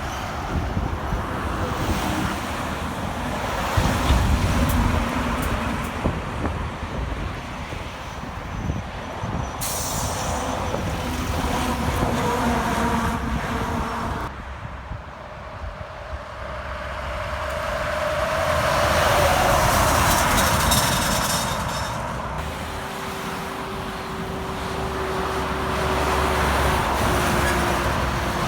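Heavy diesel trucks passing on the road, their engine and tyre noise swelling and fading as each goes by. There is a brief high hiss about ten seconds in, and the sound drops abruptly at about fourteen seconds.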